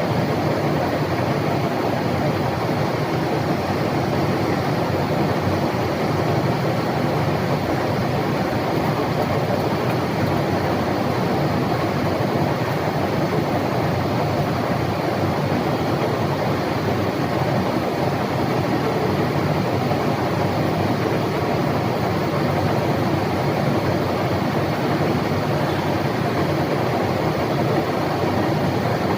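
SK 12 vertical turning lathe running, a steady mechanical noise that holds even without changing.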